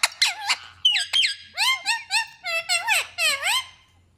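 Indian ringneck parrots calling: a quick run of short, squeaky calls that sweep up and down in pitch.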